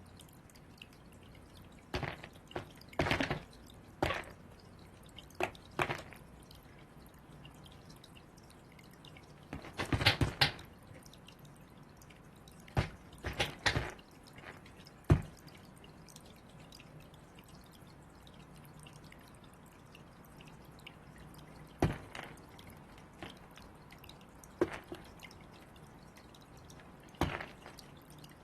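Crows pecking and knocking at food balls: irregular sharp taps in short clusters, with quiet stretches between.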